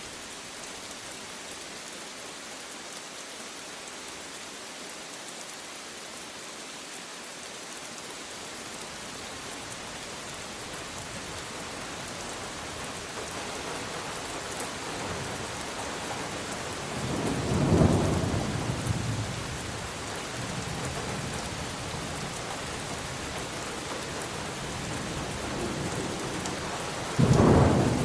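Steady rain falling throughout, with two rolls of thunder: one swelling about two-thirds of the way in, and a louder one that starts suddenly near the end.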